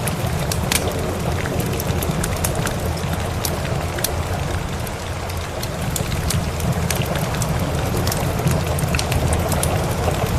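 Wood fire in a fireplace crackling with frequent sharp pops, over steady rain with a low rumble underneath.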